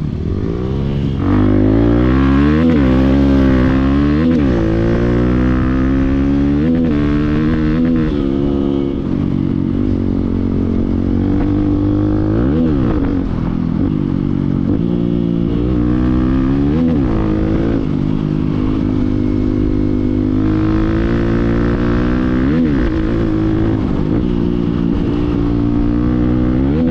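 Motorcycle engine running under way, its pitch rising and falling again and again as the throttle opens and closes.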